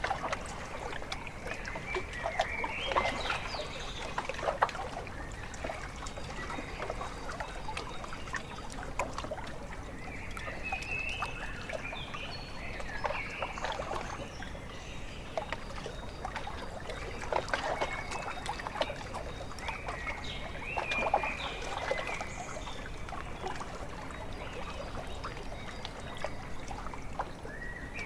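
Small waves lapping and trickling at a lakeshore in clusters every few seconds, with birds calling now and then.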